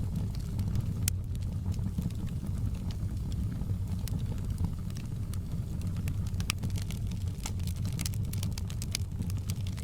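Wood fire crackling in a fireplace: frequent sharp pops and snaps over a steady low rumble, the pops coming thicker near the end.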